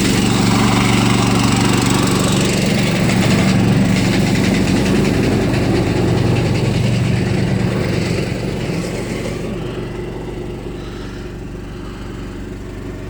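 An engine running steadily at a low, even pitch, growing quieter about eight seconds in.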